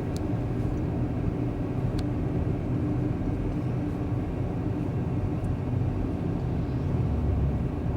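Boat motor running steadily at cruising speed, a continuous low engine hum.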